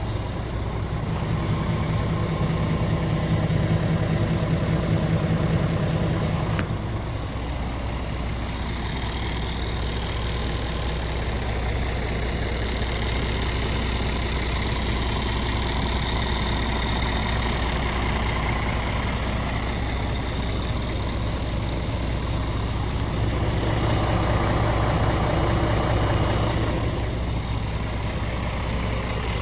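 Scania R450's 13-litre straight-six Euro 6 diesel engine idling steadily. It is louder for a few seconds near the start and again near the end, with a single click in between.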